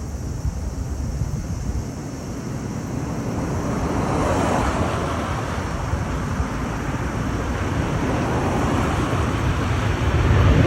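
Jet airliner passing low overhead, its engine noise a rushing roar that builds from about three seconds in and stays loud, with wind buffeting the microphone.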